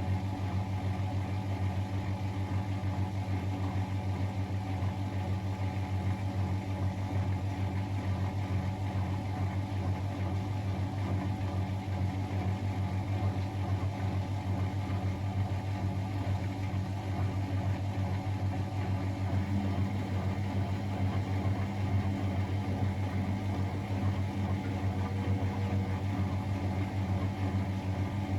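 Miele Novotronic W921 washing machine running with a steady, unbroken hum and a fast flutter.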